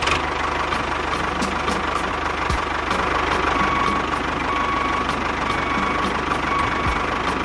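A small motor running steadily with a fast low throb, and a light tick repeating about three times a second.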